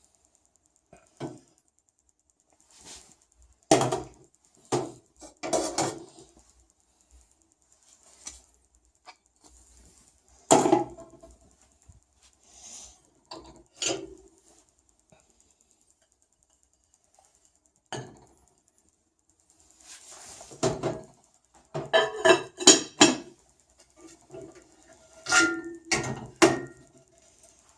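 Dishes and cutlery clattering and clinking as they are handled, in short bursts of knocks with quiet pauses between them.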